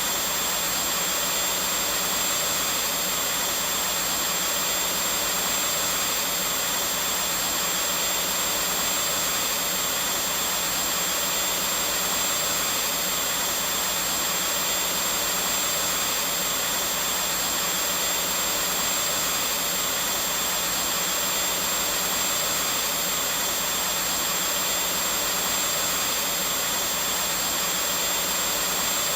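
Vacuum cleaner running steadily: an unbroken airy rush with a thin high whine over it, used as continuous white noise.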